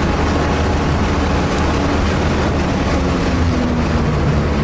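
Car engine running hard under load, heard from inside the cabin with steady road and wind noise over it.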